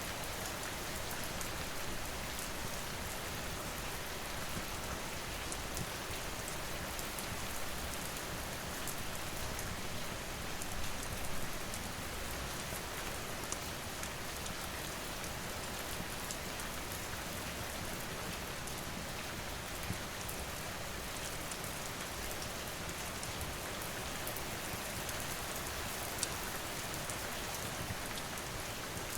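Steady rain falling, with a few sharp pops here and there from a crackling wood fire.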